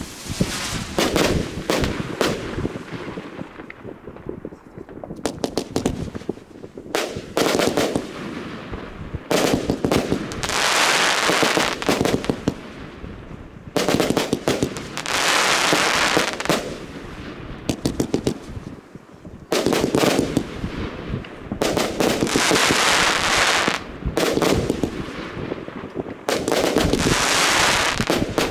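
Consumer firework cakes firing: volleys of sharp bangs alternating with stretches of rushing crackle a second or two long, in waves every few seconds. A brief lull about five seconds in, where the PGE Burning Dragon Junior cake ends and the Heron 25/25 V456 cake takes over.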